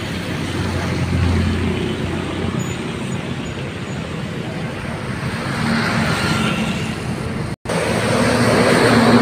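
Road traffic with a bus engine running as it moves past, over a steady wash of tyre and road noise. The sound cuts out completely for a moment about seven and a half seconds in, then the traffic comes back louder.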